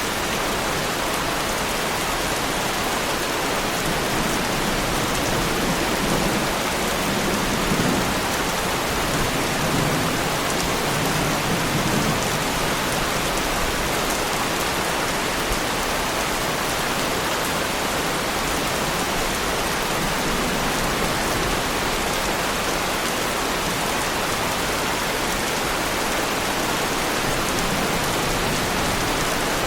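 Heavy rain falling steadily on a car body, a dense even patter, with a low rumble of thunder swelling briefly about a quarter of the way in.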